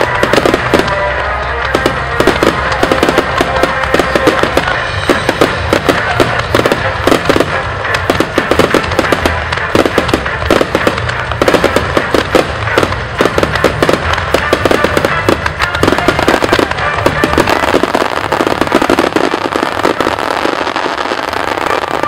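Fireworks display in a rapid barrage: many shells and ground effects going off together in a dense, continuous run of bangs and crackles.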